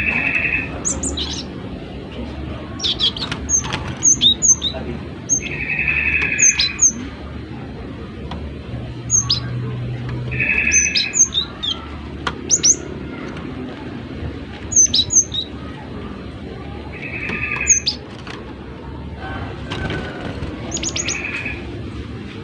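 Cinereous tit (gelatik batu) calling: quick series of sharp, high chirps, broken about every four to six seconds by a harsh, buzzy call lasting about a second.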